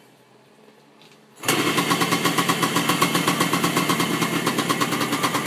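Suzuki TS 125's two-stroke single-cylinder engine catching suddenly about a second and a half in, then running with a fast, even pulse. It is the engine's first run after a carburettor and fuel-system rebuild.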